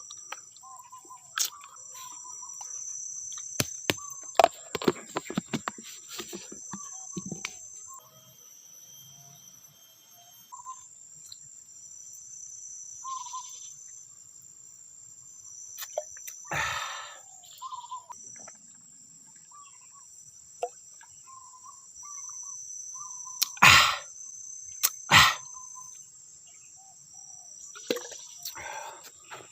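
Steady high-pitched insect chorus of tropical forest, with short bird chirps scattered through it. Sharp knocks and clicks break in: a cluster about five seconds in, and two loud single knocks about three-quarters of the way through.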